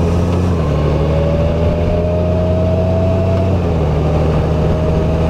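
Honda Gold Wing's flat-six engine running under way, with a thin whine that rises slowly in pitch over the first few seconds.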